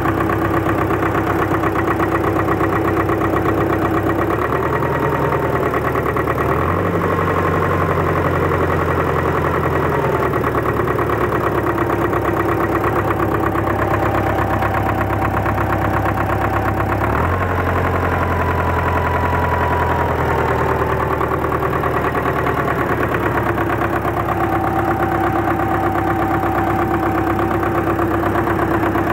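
D-243 four-cylinder diesel engine running steadily just after its fuel injection pump was repaired, its note shifting in pitch a few times, most clearly about a third of the way in and again past the middle.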